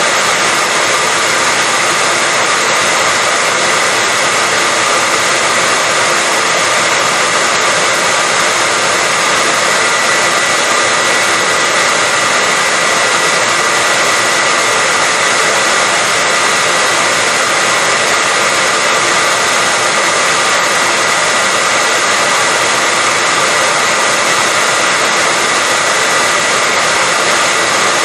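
Hair dryer running steadily, a constant blowing hiss with a faint high whine from its motor and fan.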